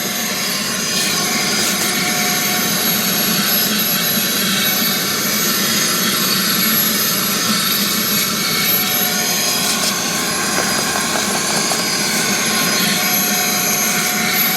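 Steady whine and rush of air from an electric motor-driven detailing tool running continuously.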